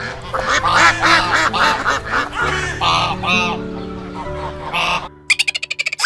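Mallard ducks quacking repeatedly in a busy flock, with soft background music under them. Near the end the quacking stops, and a rapid run of high, sharp chips follows.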